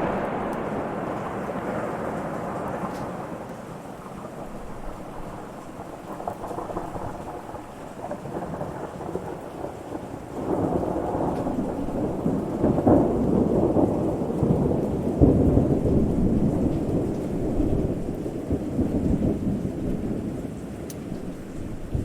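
Thunder rumbling with rain: a long rolling peal fades over the first few seconds, then a second peal builds about ten seconds in, peaks twice and slowly dies away.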